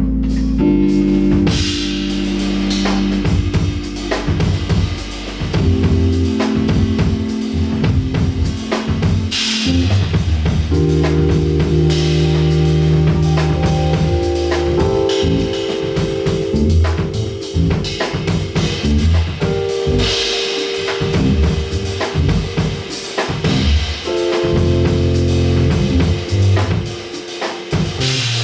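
Live band playing an instrumental intro: drum kit with bass and keyboard notes that change every couple of seconds.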